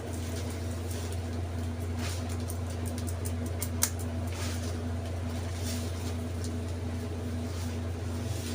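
Steady low machine hum, with scattered light clicks and one sharper click about four seconds in.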